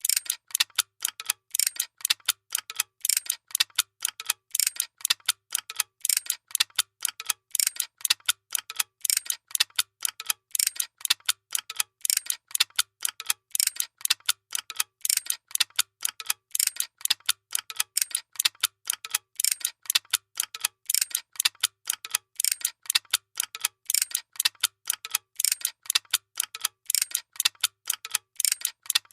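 Workshop machine running with a fast, regular mechanical clicking, about four clicks a second, sharp and mostly high in pitch, with a faint low hum pulsing in step.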